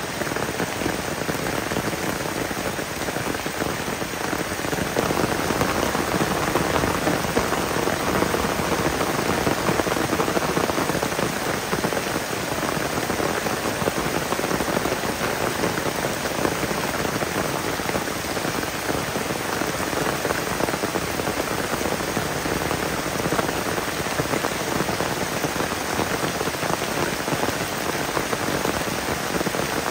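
Heavy rain falling steadily on a tarp and tent.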